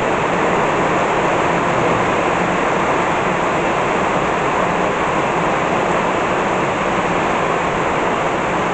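Heavy tropical rain pouring down: a dense, steady rush of rain with no letup.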